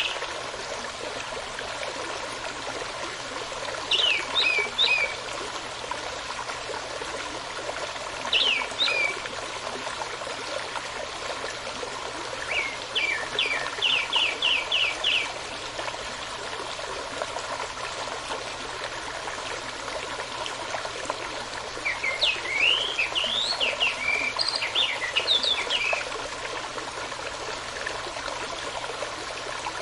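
Steady running brook with a songbird singing over it in four separate bursts of quick, high chirped notes. One burst is a rapid run of repeated notes, and the last is the longest and most varied.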